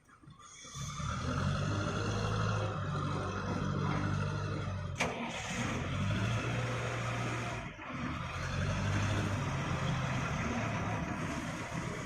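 Old JCB backhoe loader's diesel engine running steadily, coming in under a second in, with one sharp knock about five seconds in.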